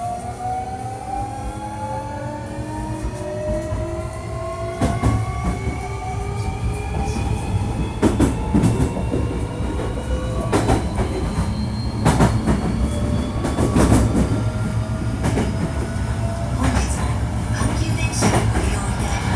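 Hankyu 1300-series electric train under way, its Toyo IGBT VVVF inverter and traction motors giving a whine in several tones that climbs steadily as the train accelerates. Heard over the running rumble, with the wheels clicking over rail joints repeatedly from about five seconds in.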